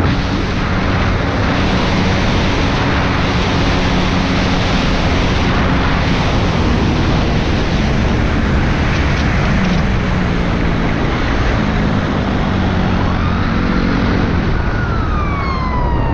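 Loud, steady vehicle noise: a low engine hum under a constant roar of wind or road noise. A police siren wails, sweeping up and down, in the last few seconds.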